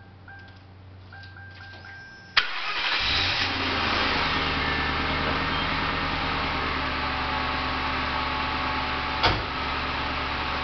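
Ford Crown Victoria's 4.6-litre V8 started after a quiet spell with a repeating electronic warning chime: about two and a half seconds in it cranks and catches at once, then settles into a steady idle. A single short knock sounds near the end.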